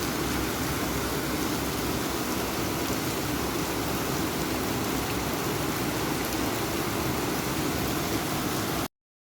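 Heavy rain falling steadily in a storm, a dense even hiss, cutting off abruptly near the end.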